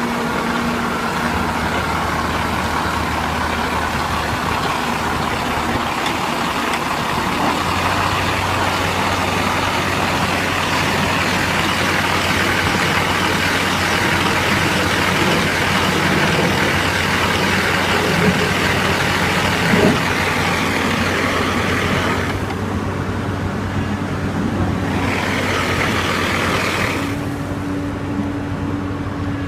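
Heavy diesel machinery running steadily during a test run of a screw-type downhole mud motor, with a broad hiss over the engine note that drops away about two-thirds of the way through, returns briefly, and drops again near the end.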